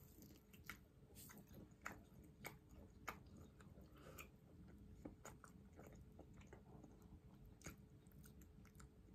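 A person chewing fried plant-based chicken nuggets: faint crunchy bites at a steady chewing pace, over a faint steady hum.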